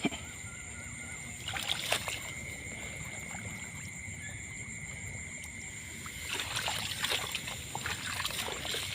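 Water sloshing and splashing in short bursts, once about a second and a half in and again more busily from about six seconds on, over a steady high-pitched whine.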